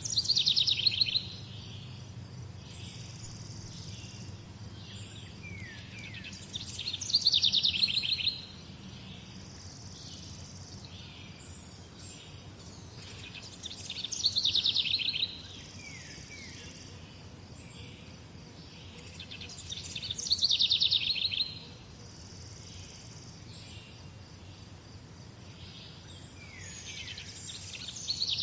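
A songbird repeating the same short song about every seven seconds: a fast, loud trill of rapid notes that drops in pitch, about a second and a half long, five times. Between the songs, a steady faint outdoor background.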